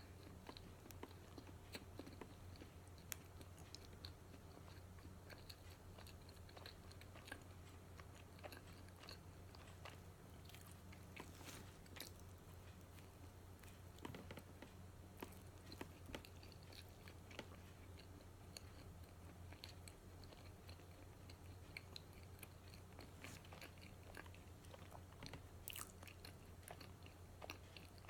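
Close-miked chewing and biting of matcha donuts: soft crunches and many short mouth clicks scattered throughout, over a steady low hum.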